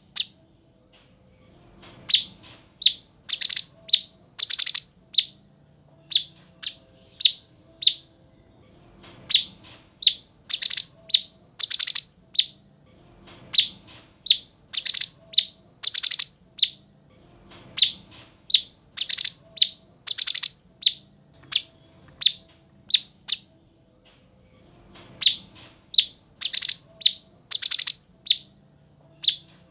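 Cucak cungkok, a bulbul, singing in repeated bouts. Each bout is a quick run of short, sharp, high notes broken by louder harsh bursts, and the pattern comes round again about every four seconds.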